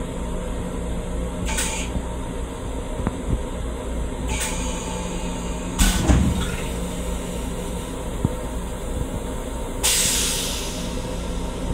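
Steady low rumble and hum inside an LIRR M7 railcar's restroom. Short hisses come through about one and a half and four seconds in, with a clunk about six seconds in and a longer hiss near the end.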